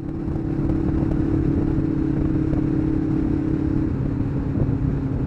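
Kawasaki GPZ500S parallel-twin motorcycle engine running at a steady, even speed under way, picked up by a helmet camera along with rushing riding noise.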